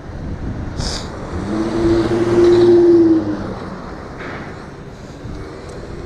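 A motor vehicle passing close by, its steady engine hum swelling in the middle and fading away, over steady road and wind noise.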